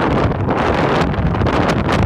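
Blizzard winds gusting 60 to 70 mph buffeting the microphone: a loud, steady rumble of wind noise that flutters with each quick gust.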